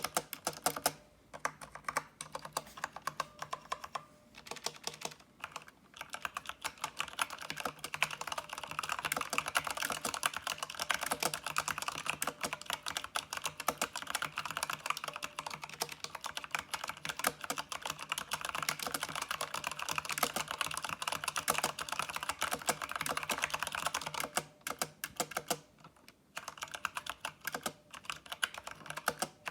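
Typing on a Micronics MANIC Z-K9 mechanical keyboard with brown (tactile) switches. The keystrokes come fast and close together through most of it, sparser with short pauses near the start and near the end.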